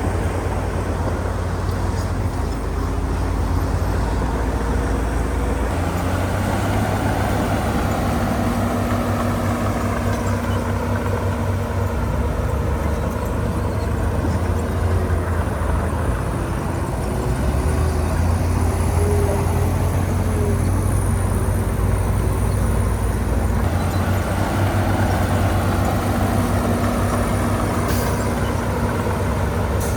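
Heavy diesel earthmoving machinery running under load, the engine note rising and falling as it works.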